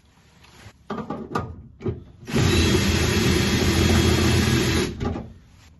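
A few knocks and clicks, then a power drill runs steadily for about two and a half seconds, driving a screw extractor to back out a seized door-glass screw.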